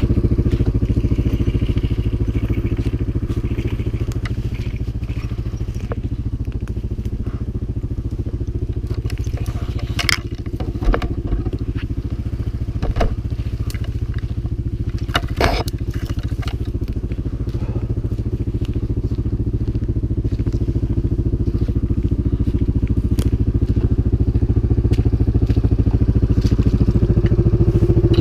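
CFMoto 500 ATV's single-cylinder four-stroke engine running under load off-road. Its note eases off in the middle and picks up again near the end, with a few sharp knocks and clatters about halfway through.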